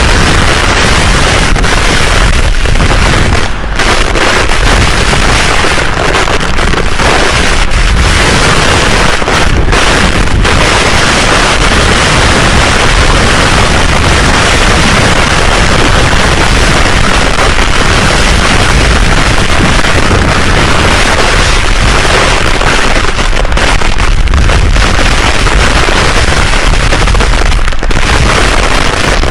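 Loud, steady rush of storm noise, with wind buffeting the microphone and a deep rumble underneath.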